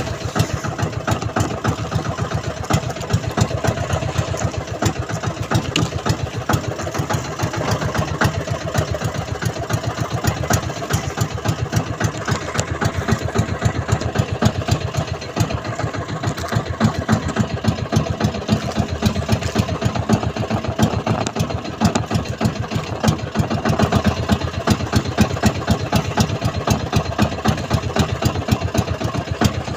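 Small fishing boat's engine running steadily, a rapid, even train of firing pulses.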